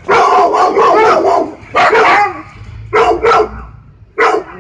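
Siberian Husky barking in bursts: a fast run of barks over the first second and a half, then short groups of two or three barks with brief pauses between.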